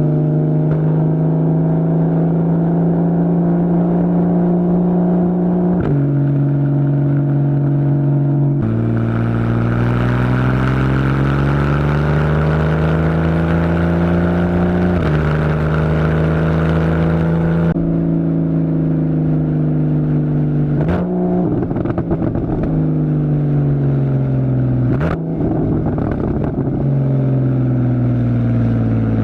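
2015 Porsche Boxster's 2.7-litre flat-six through a Fabspeed Maxflo aftermarket exhaust, accelerating through the PDK gears: the engine pitch climbs and drops sharply at each upshift, about four times. Then the revs fall away as the car slows, with two short raspy bursts about 21 and 25 seconds in at the downshifts.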